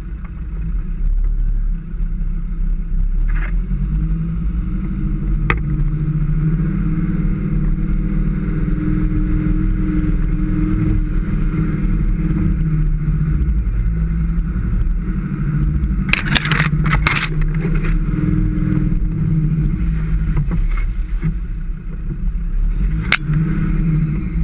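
Land Rover Defender engine running while driving off-road, steady with its pitch rising and falling a little. There are a few sharp knocks and rattles, a quick cluster of them about sixteen seconds in and another near the end.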